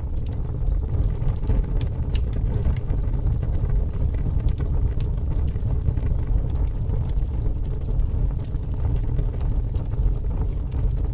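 Fire burning with a steady low rumble and scattered small crackles and pops.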